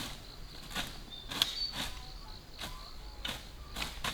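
Grass and weeds being slashed by hand with brush knives: quick swishing cuts, about seven in four seconds. A steady high insect chirring runs behind them.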